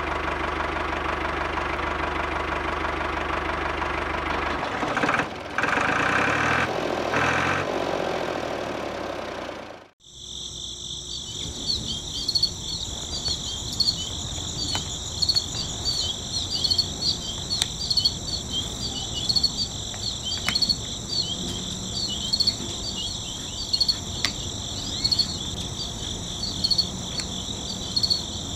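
Small electric motors of a toy conveyor-belt brick machine running steadily for about ten seconds, changing pitch partway. After a sudden cut, steady high-pitched cricket chirping with scattered light clicks of small toy bricks being set into a toy trailer.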